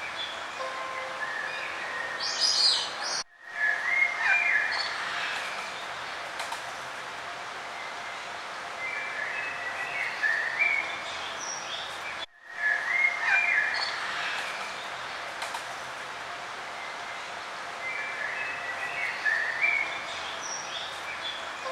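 Songbirds chirping and singing in short phrases over a steady background hiss, with two brief dropouts about nine seconds apart.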